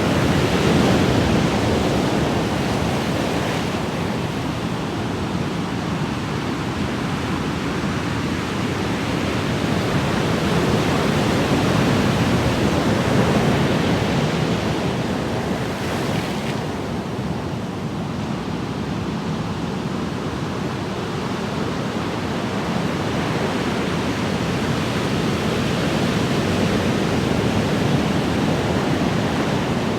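Ocean waves washing ashore: a steady rush of surf that swells and eases slowly, several times over.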